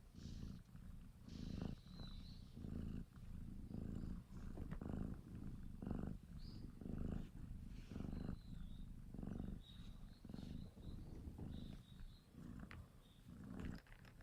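A six-month-old domestic kitten purring, the low rumble swelling and fading in a steady rhythm with each breath.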